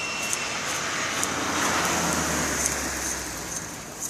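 Southern house wren giving short, very high ticks, roughly one or two a second, while a passing vehicle's noise swells up and fades in the middle.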